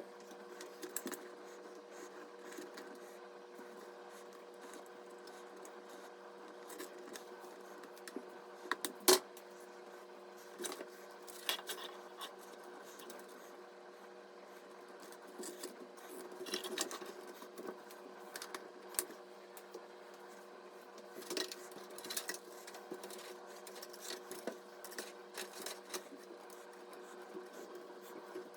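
Scattered small clicks, taps and light knocks of computer parts being handled during assembly, the sharpest knock about nine seconds in, over a steady low hum.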